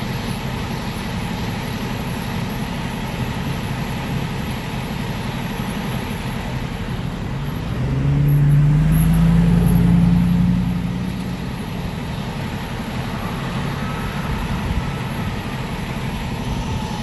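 Steady road traffic noise, with one vehicle passing close about halfway through: its engine note rises in pitch, grows louder for a few seconds, then fades away.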